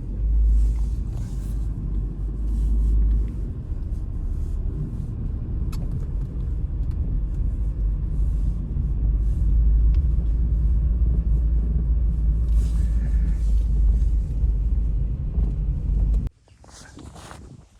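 Strong wind buffeting the microphone in a blizzard: a loud, low rumble that cuts off suddenly near the end.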